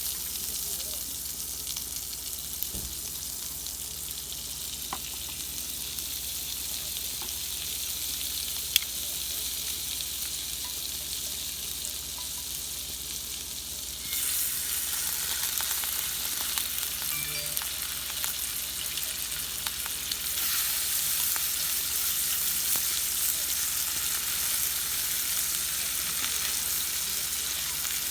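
Food sizzling as it cooks, a steady hiss with small crackles that grows louder about fourteen seconds in and again about twenty seconds in.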